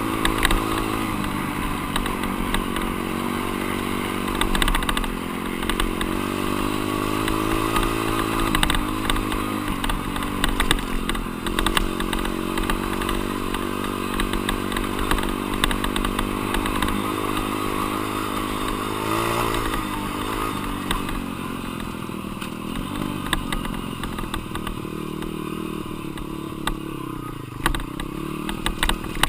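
Dirt bike engine under way on a motocross track, its revs climbing and dropping again and again as the rider works the throttle and gears, with a deep drop in revs near the end before it picks up again. Short rattles sound over it.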